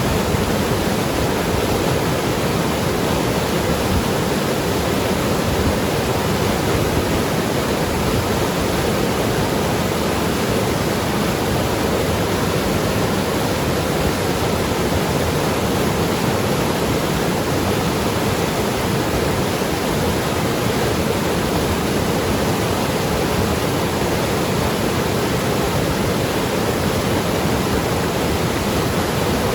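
Mountain river rushing and gurgling over rocks, a steady full-bodied water noise with no pauses or changes.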